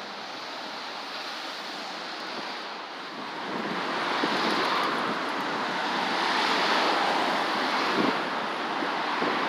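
Rushing noise of strong wind on the microphone mixed with city traffic, swelling louder about three and a half seconds in.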